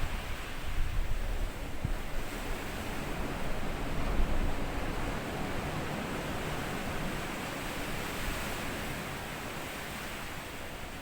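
Small sea waves washing up and drawing back over a sandy beach: a steady hiss of surf. Low rumbles of wind on the microphone come in the first couple of seconds and again about four seconds in, and the wash is a little quieter near the end.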